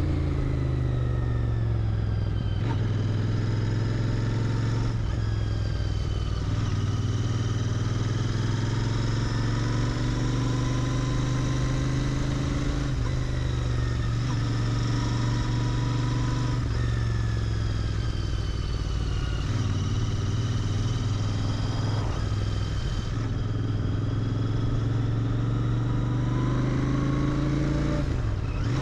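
Royal Enfield Interceptor 650's parallel-twin engine running through its stock exhaust while riding, its pitch rising and falling several times as the throttle opens and closes.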